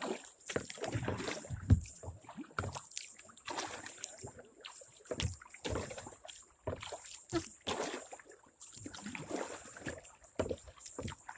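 A kayak being paddled: water swishing and splashing with the strokes, with irregular knocks and bumps against the hull.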